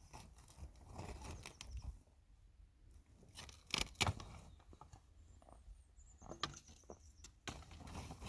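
Faint scattered knocks and rustling, with a cluster of sharper clicks about four seconds in.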